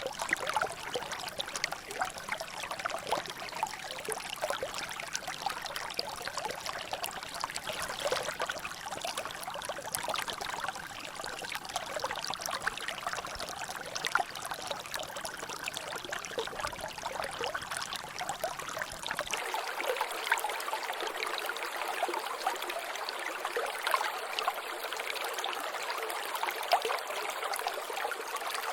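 Water trickling and dripping steadily in a natural drainage channel, a continuous run of small splashes and drops. A faint low rumble beneath it cuts out abruptly about two-thirds of the way through.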